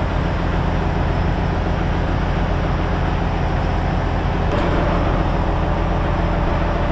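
Semi-truck diesel engine running steadily, a low hum with a constant noise of the truck over it.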